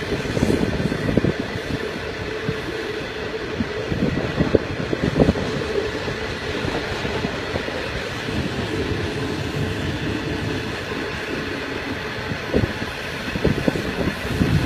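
Iron ore train's wagons rolling along the rails: a steady rumble with irregular clanks and knocks from the wheels.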